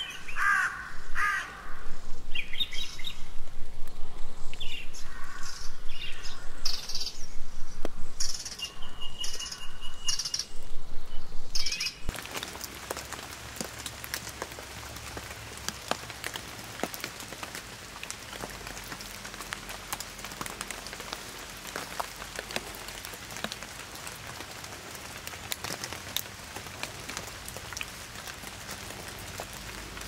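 Birds calling in a rapid run of short chirps and squawks, one giving a brief steady whistle-like note, for about the first twelve seconds. Then the sound changes abruptly to a quieter, steady rain hiss with individual drops ticking, and the birds are no longer heard.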